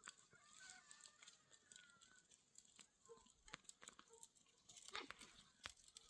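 Faint animal calls: thin, wavering chirps in the first two seconds, with a few scattered clicks.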